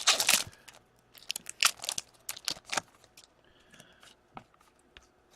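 Wrapper of a hockey card pack crinkling and tearing open, a run of sharp crackles in the first three seconds, then fainter clicks and rustles of the cards being handled.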